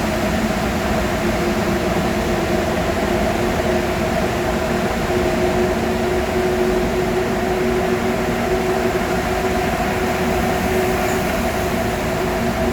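Steady engine and road drone of a vehicle driving, heard from inside the cab, with a few held hum tones over a constant rush.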